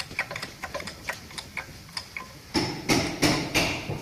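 Hand-tool work on a truck's torque rod: a run of light, irregular metallic clicks, several a second, then about four louder knocks in the last second and a half.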